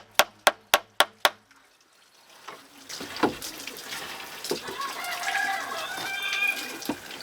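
A tool striking in rapid, even blows, about four a second, which stop a little over a second in. After a short pause comes a noisy outdoor background with chickens clucking.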